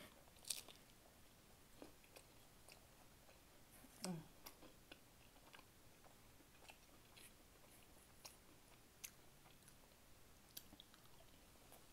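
Close-up chewing of a bite of thin and crispy pizza crust topped with a jalapeño slice: quiet crunches and wet mouth clicks, with a sharper crunch just after the bite. A brief voiced hum about four seconds in.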